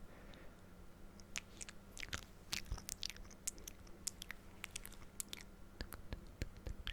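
Close-up ASMR mouth sounds: scattered wet clicks and smacks right at the microphone, irregular and fairly faint, over a faint steady low hum.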